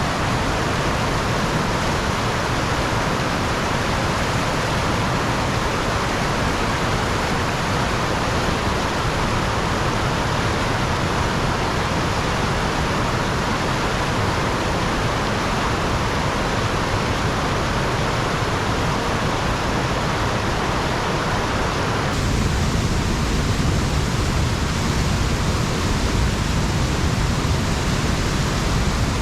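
Waterfall rushing, a steady, loud wash of falling water with no pauses. About three-quarters of the way through the sound shifts to a heavier low rumble.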